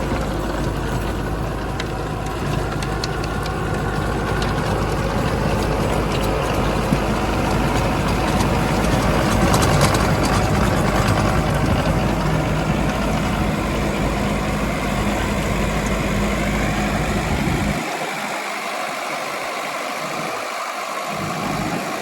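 Sonalika DI 750 Sikander tractor's diesel engine running steadily while pulling a rotavator. Near the end the deep rumble drops away and the sound gets a little quieter.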